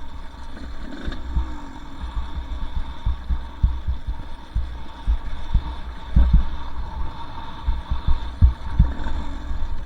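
Two-stroke dirt bike descending a rough trail: irregular low thumps and rumble as the bike jolts over bumps, with a faint steady engine tone underneath.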